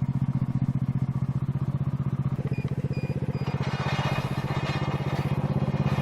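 Single-cylinder pit bike engine running at riding speed, a steady fast-pulsing exhaust note that gets fuller and busier about halfway through.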